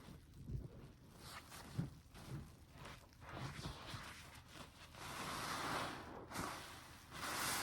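Soapy sponge being squeezed by hand: wet squishing and crackling of foam. Short squishes come first, then a longer fizzing squeeze from about five seconds in and another near the end.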